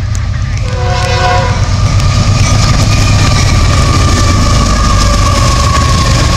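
Diesel freight locomotives passing close by, with a heavy low engine rumble and the sound of the wheels on the rails. The horn sounds just under a second in, and a high tone then holds and slowly drops in pitch as the lead units go past.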